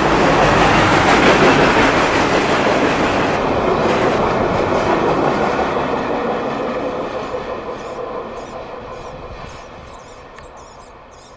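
CSX freight train rolling past on the track, its railcars clattering. The noise is loud for the first few seconds and then fades steadily as the train moves away.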